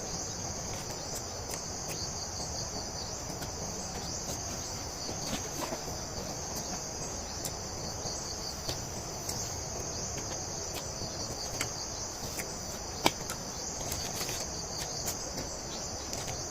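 Insects shrilling in a steady, continuous high-pitched chorus, with scattered small clicks and one sharper click about thirteen seconds in.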